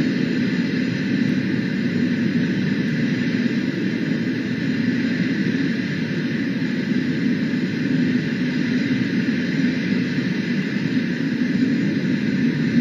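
Steady low rumble with a hiss over it, unchanging throughout: distant city traffic heard through a webcam's microphone.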